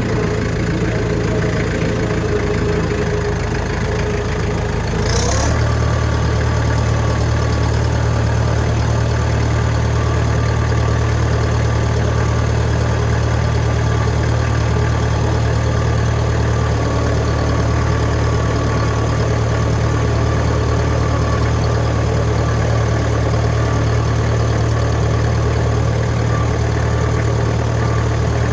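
International B-375 tractor's diesel engine idling steadily after a cold start. About five seconds in the engine speed is raised, with a quick rising sweep in pitch, and it runs on a little louder and steady at the higher speed.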